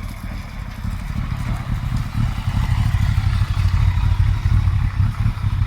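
Kawasaki ZZR1200 inline-four motorcycle being ridden, its engine rumble mixed with wind noise, getting louder about two seconds in.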